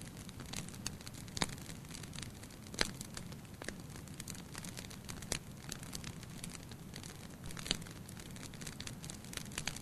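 Wood fire burning in a fireplace: a low steady rumble of the flames with irregular crackles and sharp pops of the burning logs, a few of them louder than the rest.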